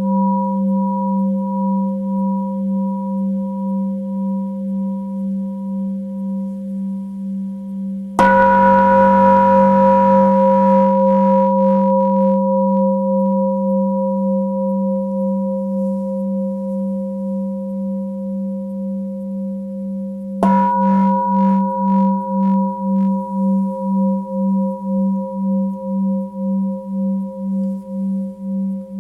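Tibetan singing bowl ringing with a slow, even pulsing waver, struck afresh twice, about a third of the way in and again about two-thirds in, each strike bringing a bright onset that slowly fades.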